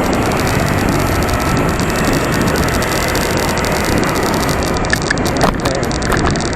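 Steady rush of wind and road noise from riding a bicycle along a city street, with traffic around.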